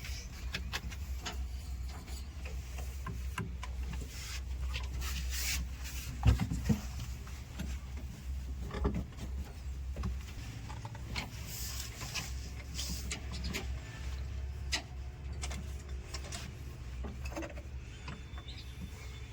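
Heavy diesel machinery running steadily, with scattered knocks and clatter throughout and one loud knock about six seconds in.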